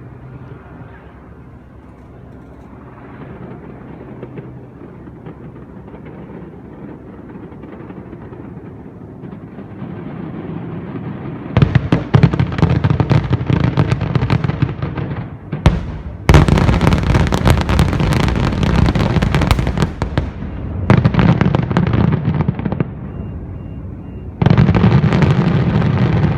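Large aerial fireworks display: after about eleven seconds of low background noise, dense barrages of rapid booms and crackling set in abruptly, in four loud volleys of several seconds each.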